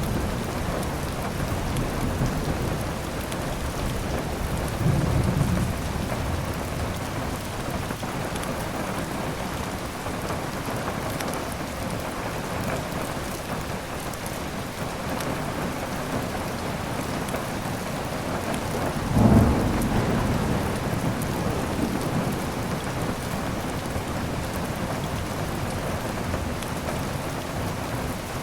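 Steady heavy rain with thunder: a low roll of thunder about five seconds in, and a louder, sharper thunderclap just before twenty seconds that rumbles away over the next few seconds.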